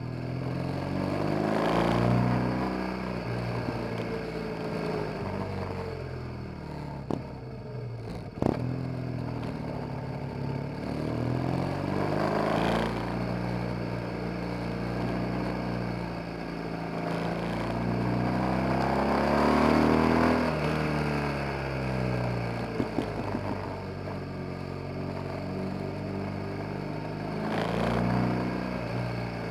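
BMW R 1200 GS boxer-twin engine under way, its revs climbing and dropping again several times as the rider accelerates and rolls off. Two sharp knocks come about a third of the way through.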